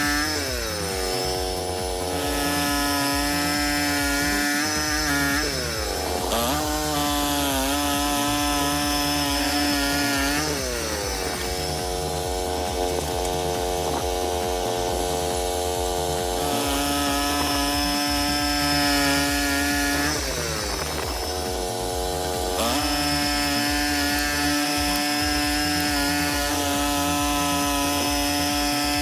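Portable band sawmill running, its small gasoline engine holding a steady pitch that sags and recovers several times as the blade cuts through the log.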